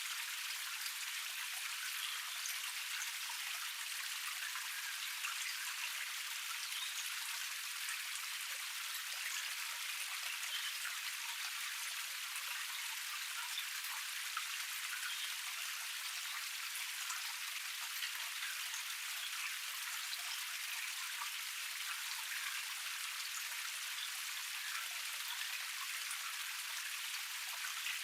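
Water running and splashing steadily down a small forest cascade: an even, hissy sound with many fine splashes and no low rumble.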